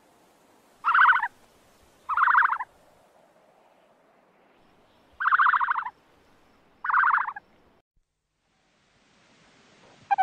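Ostrich calling: four short, raspy, pulsing calls, each about half a second long, with one to three seconds between them. A brief pitched chirp follows right at the end.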